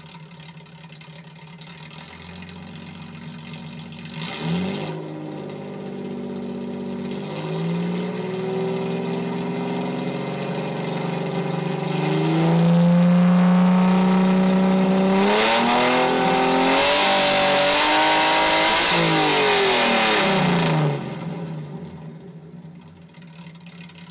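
Datsun 240Z's inline-six running through an open, muffler-less exhaust with a 3-2 header and 2.5 in pipe. It idles, then the revs climb in stages from about four seconds in, are held loud and high with two brief dips, and fall back to idle near the end.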